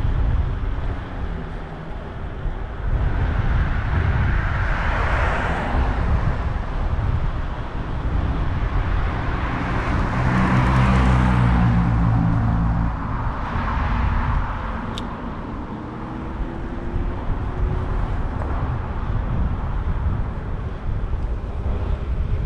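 City street traffic heard from a moving bicycle: several motor vehicles pass, the loudest about ten to twelve seconds in with a clear engine hum, over steady wind rumble on the microphone.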